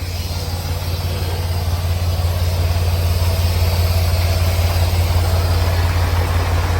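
Semi tractor's diesel engine idling steadily: a deep, even drone.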